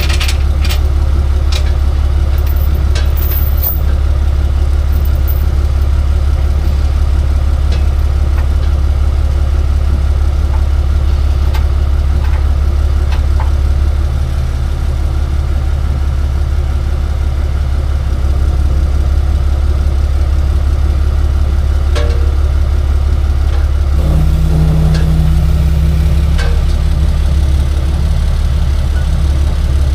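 Tow truck engine idling with a steady low hum, with a second, higher hum joining about 24 seconds in. A few light clicks are heard in the first few seconds.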